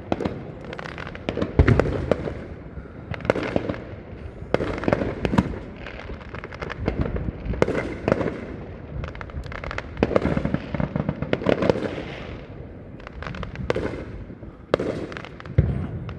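Fireworks going off again and again: sharp bangs and crackling bursts, each trailing into an echoing rumble, with a loud bang about a second and a half in and another near the end.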